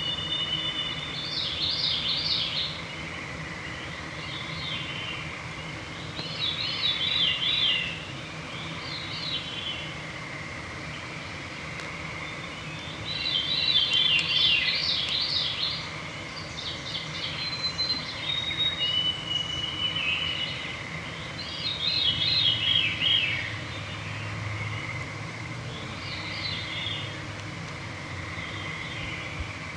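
Songbirds singing in an evening chorus: short, rapid song phrases come every few seconds, with a few clear, steady whistled notes between them. Underneath runs a faint, steady high background hum.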